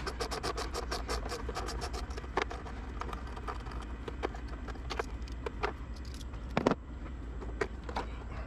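Hand tools and parts being worked in a car's engine bay during disassembly: a fast run of clicks, about ten a second, for the first couple of seconds, then scattered clicks and one sharper knock near the end.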